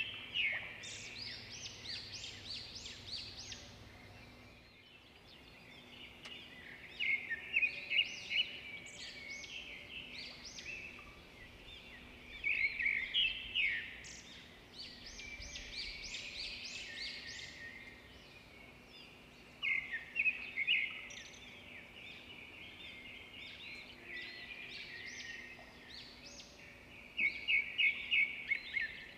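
Birds chirping and singing in short runs of rapid, high notes that come back every few seconds, over a steady background hiss.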